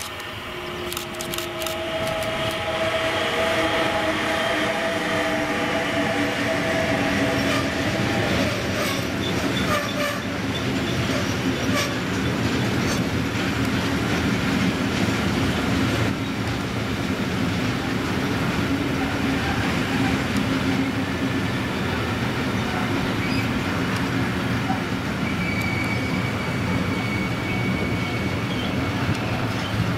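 DB Class 185 electric locomotive passing with a long train of semi-trailers on freight wagons. The locomotive's whine falls in pitch as it goes by, then the wagons rumble and clatter steadily past, with a brief high squeal near the end.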